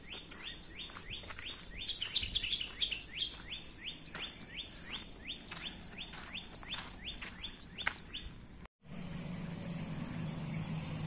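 A bird calling in a long, rapid series of short chirps that slide down in pitch, about four a second. About three-quarters of the way in the sound cuts out for a moment, and a steady low hum follows.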